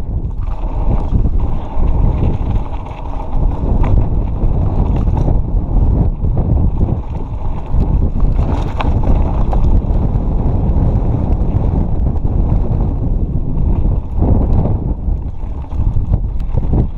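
Wind buffeting the microphone on a fast mountain bike descent, over tyres running on a dirt trail and the bike rattling with many small knocks.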